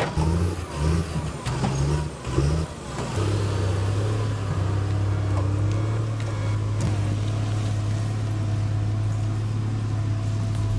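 Diesel engine of a John Deere 640H forestry skidder running, its pitch shifting in steps for the first few seconds and then holding steady.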